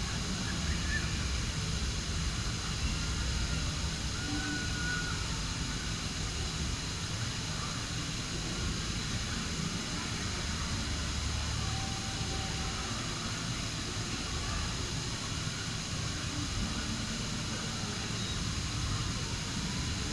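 Amusement park background noise: a steady low rumble with faint distant voices now and then.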